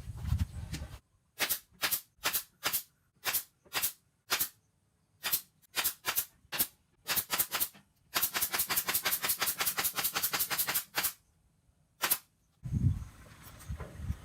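A string of short, hissy rattling strokes like a shaker. They come one at a time with silent gaps between, then in a fast run lasting about three seconds, and end with a single stroke.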